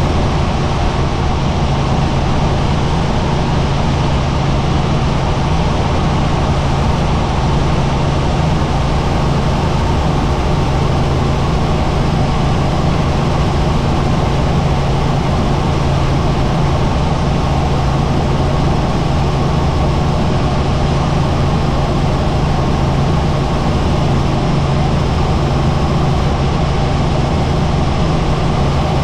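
Helicopter in flight: a steady, loud drone of rotor and turbine engine with a constant low hum.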